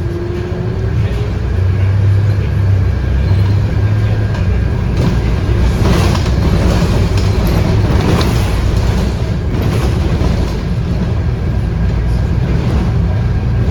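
Interior of a Scania K230UB bus under way: its 8.9-litre five-cylinder diesel runs with a steady low drone that grows louder about two seconds in. The body and fittings rattle and bang over bumps several times.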